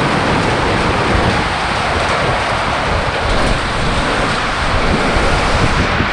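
Heavy rain pouring down in a steady hiss, with gusts of wind buffeting the microphone.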